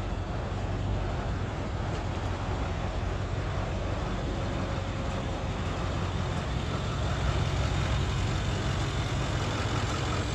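Ford 7.3 L Powerstroke V8 turbo-diesel idling with a steady low rumble, a little louder in the second half.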